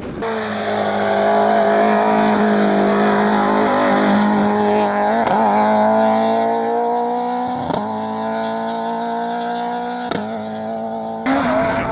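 Rally car engine running hard at high revs, its pitch climbing slowly, broken three times by short dips. Near the end it cuts abruptly to a louder burst of engine sound.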